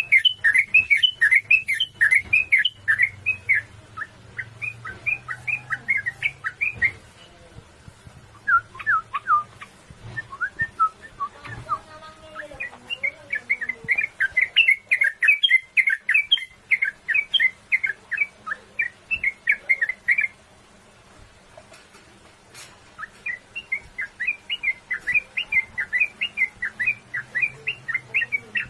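Sooty-headed bulbul (trucukan) singing in long rolling runs of quick chirping notes, with short breaks between runs.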